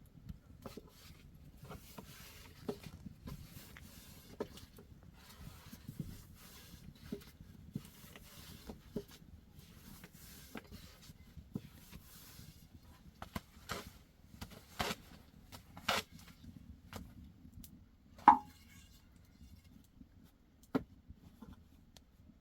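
Scattered light knocks, taps and rubbing from hands handling objects at work, over a soft low rumble. One sharper knock that rings briefly comes about 18 seconds in.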